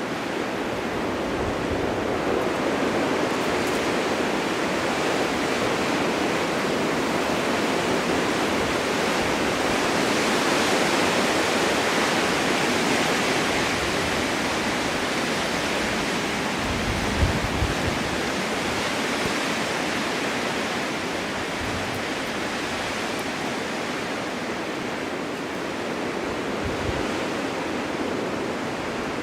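Snowstorm wind blowing steadily, a continuous rushing that swells and eases, with brief low buffets of gusts on the microphone about halfway through and again near the end.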